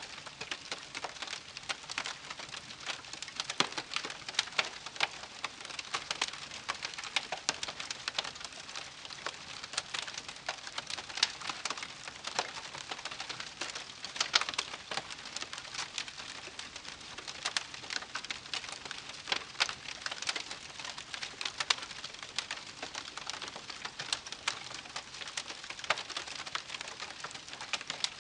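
Wood campfire crackling: dense, irregular pops and snaps over a steady soft hiss.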